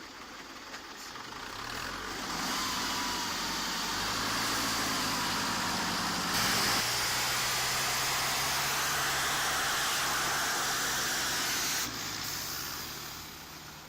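Heavy truck engine building up and running hard and steady under load, with a broad hiss over it. The engine note drops back sharply about twelve seconds in, then fades.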